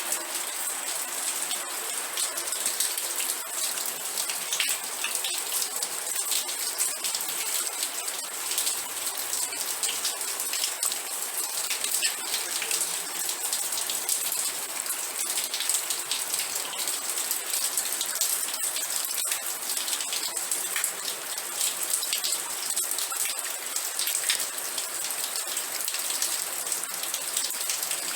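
Steady rain falling, with a dense, continuous patter of individual drops striking a surface.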